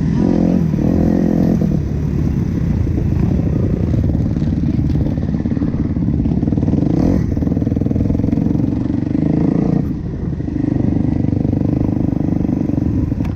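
Motocross bike engine running hard, its note rising and falling with the throttle, with a brief drop in revs about ten seconds in.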